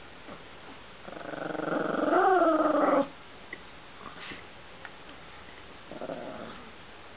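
Chihuahua growling: one long growl that builds, wavers in pitch and cuts off abruptly, then a shorter, softer growl near the end.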